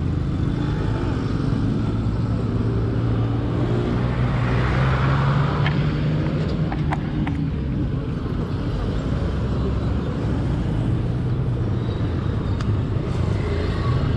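Motorcycle engine idling steadily amid street traffic, with a vehicle swelling past about four to six seconds in and a few light clicks just after.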